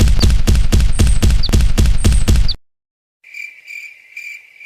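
A loud, fast, even pounding, about three strikes a second, that cuts off suddenly about two and a half seconds in. After a short silence, crickets chirp in steady high-pitched pulses.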